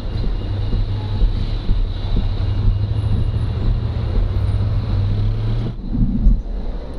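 Honda CMX500 Rebel's parallel-twin engine running steadily at low riding speed, with some wind on the microphone; its steady note cuts off abruptly near the end as the bike stops at the curb.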